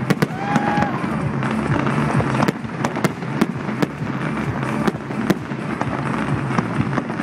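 Fireworks going off: sharp bangs about two a second over a continuous dense crackle.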